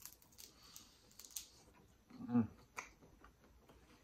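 Biting into and crunching a crispy, air-fried prawn coated in Flamin' Hot Cheetos crumbs, close to the microphone: a crackly run of crunches and mouth clicks in the first second and a half. This is followed by a short hummed "mm" about two seconds in and a few soft chewing clicks.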